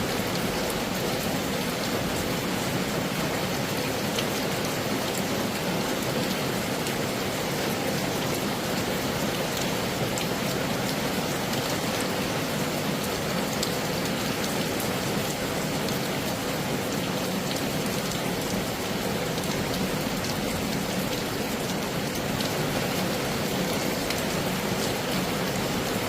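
Heavy rain falling steadily, a dense, even hiss with individual drops ticking through it.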